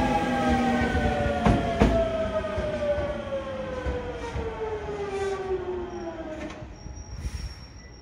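Hankyu electric train slowing beside the platform, its wheels knocking over rail joints a couple of times early on. Its motors give a whine that falls steadily in pitch and fades over about six seconds. A faint, thin high squeal starts near the end.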